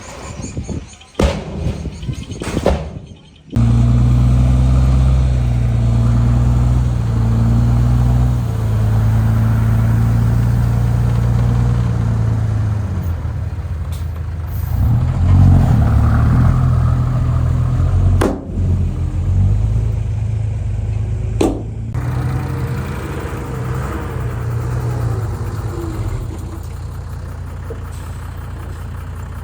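Heavy diesel engine of earthmoving machinery running under changing load, its pitch stepping up and down, with a couple of sharp metal knocks along the way. It settles to a lower, steady idle near the end. The first few seconds are choppy, with short bursts and gaps.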